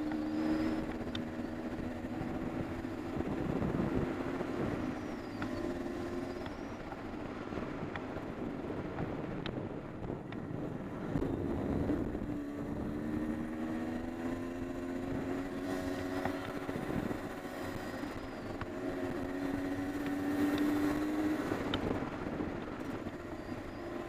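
Honda CR250R 250cc two-stroke single-cylinder dirt bike engine under way on a trail. The engine note climbs, drops off and picks up again several times as the rider works the throttle and gears.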